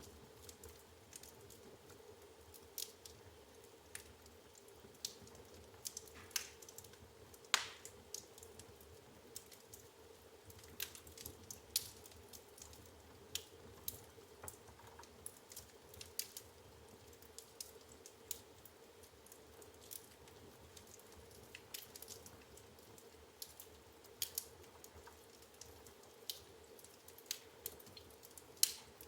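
Firewood burning in an open fireplace, crackling with irregular sharp pops and snaps, a few louder ones standing out.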